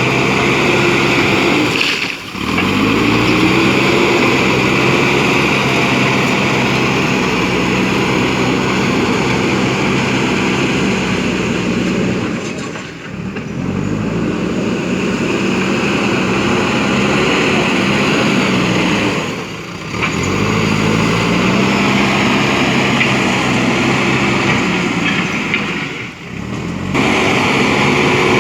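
JCB backhoe loader's diesel engine working under load. About four times its sound dips away briefly, then its pitch climbs back up as it revs again.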